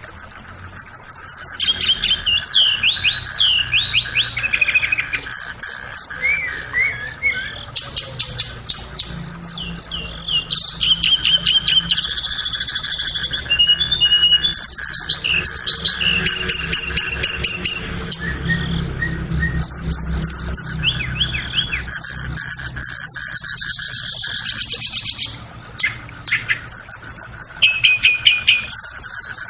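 Blue flycatcher (tledekan) song: a fast, varied run of high whistled sweeps, trills and rapid ticking series, phrase after phrase with brief gaps. A faint steady drone lies underneath.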